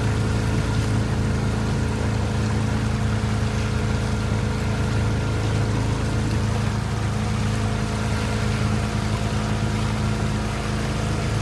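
Motorboat engine running steadily at a constant speed, an even hum with water noise around it.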